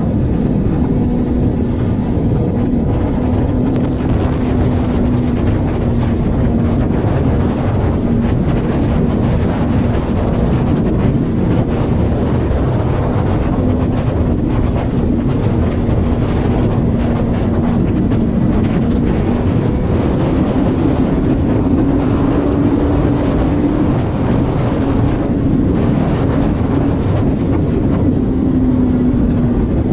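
A vehicle cruising at a steady highway speed: an engine drone holding a near-constant pitch, drifting slightly higher a little past the middle, over loud, continuous road and wind noise.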